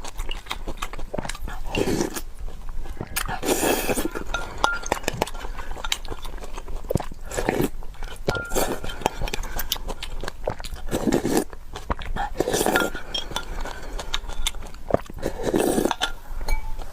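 Eating sounds: utensils clinking and scraping against a bowl, some clinks ringing briefly, with chewing in between.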